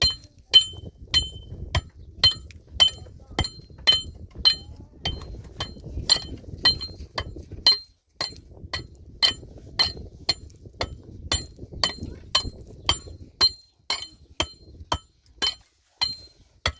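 Steady, evenly paced metallic strikes, about two a second, each with a short high ring, over a faint low rumble.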